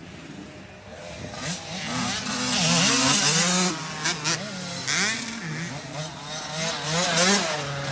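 Motocross dirt bikes running on the track, their engines revving up and dropping back again and again as the riders work the throttle through the corners and ruts. The sound swells loudest about two to four seconds in, as a bike passes close.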